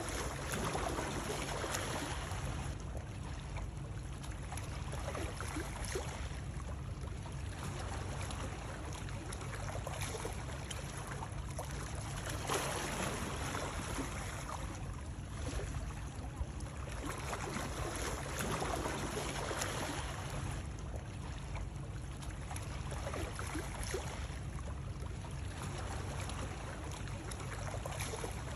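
Continuous rushing and splashing water, swelling and easing every few seconds like lapping water, over a steady low rumble.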